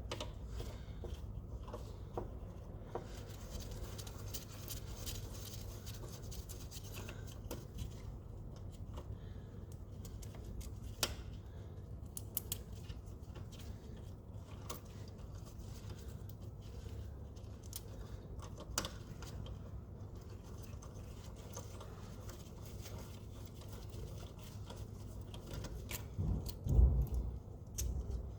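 Hand tools working on the engine's injector pipe banjo bolts: scattered light metallic clicks and clinks over a low steady hum, with a dull, louder knock near the end.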